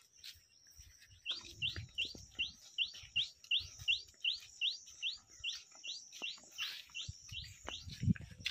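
A songbird repeating short rising chirps, about three a second, starting about a second in, over a faint steady high-pitched hiss.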